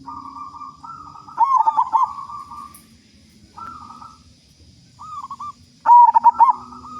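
Zebra dove (local perkutut) cooing: several phrases of quick rolling coos, the loudest about one and a half seconds in and again near the end.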